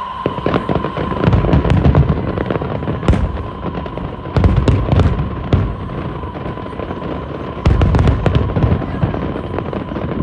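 Aerial fireworks bursting in a rapid barrage: many sharp cracks, with three waves of heavy booms, about a second in, around four seconds and near eight seconds.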